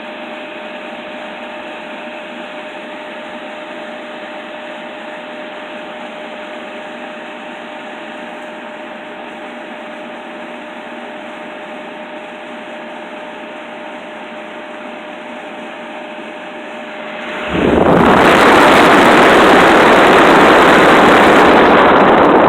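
Arctic King window air conditioner running: a steady fan whoosh with a faint, even whine. About seventeen seconds in, a much louder rush of air suddenly takes over and stays.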